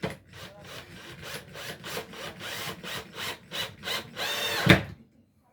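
Hand saw cutting wood: rhythmic back-and-forth strokes, about three to four a second, with a louder, ringing stroke near the end.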